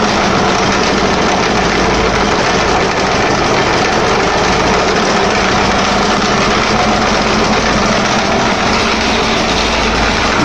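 Petter diesel engine running steadily without load, its speed held gently low while it warms up.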